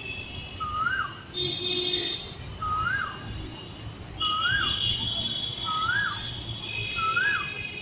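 A cuckoo calling: five short whistled notes, each rising then quickly dropping, about one every one and a half seconds. Behind it, high steady whistling tones start and stop a few times.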